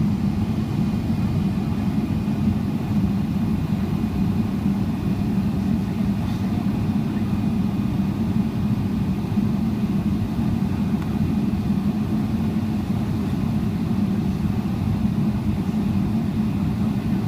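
Steady low drone inside the cabin of a Boeing 777-300ER in flight or on the ground, from its engines and airflow, holding an even pitch throughout.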